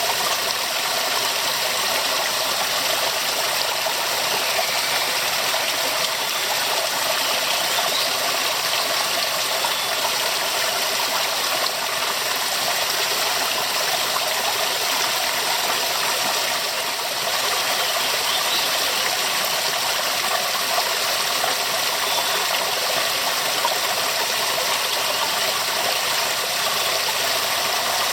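Waterfall: a steady rush of falling water, bright and hissy rather than deep.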